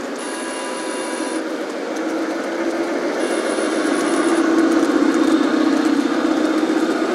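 Model diesel railcar running on a garden railway track: a steady mechanical running noise from the motor and wheels on the rails, growing louder to a peak about five seconds in as it comes closer, then easing slightly.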